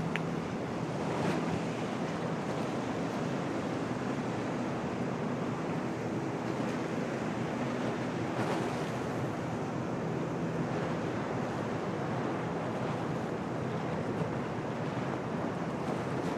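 Storm wind and waves washing in a harbour, with wind buffeting the microphone. A faint steady low hum runs underneath.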